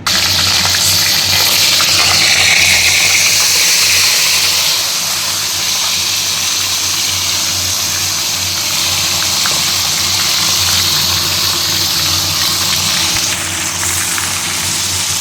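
Marinated chicken pieces frying in hot oil in a pan, a loud steady sizzle that eases a little about five seconds in.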